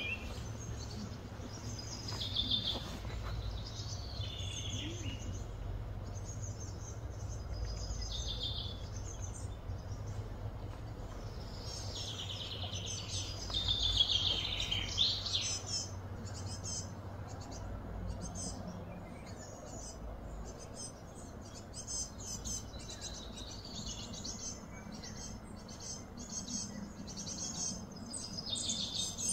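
Small birds chirping and calling, with short falling whistles that are loudest about halfway through and quicker chatter near the end, over a steady low hum.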